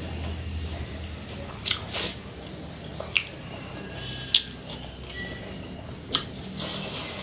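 Close-up eating sounds: chewing and wet mouth sounds of hand-eaten rice and pork, with several short sharp crunches, one about four seconds in as a fried dried red chilli is bitten.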